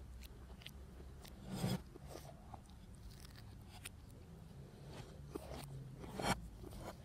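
Faint mouth sounds of chewing and biting into a McDonald's apple pie's crisp crust, with scattered small crunches and two louder crunches, about one and a half seconds in and near the end. The section is played backwards, so the chewing runs in reverse.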